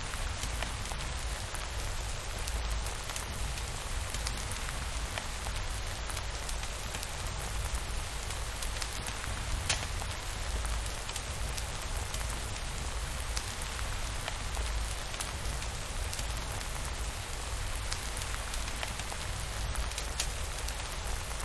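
Steady rain falling, an even hiss with a constant low rumble underneath and scattered small clicks.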